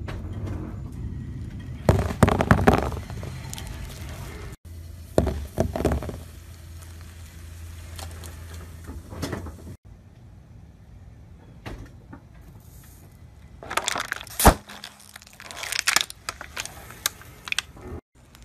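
A car tyre slowly rolling over and crushing objects, in several short cuts over a low engine hum: crumbly white balls crunching, then a plastic water bottle giving a sharp crack about fourteen seconds in and crackling as it flattens.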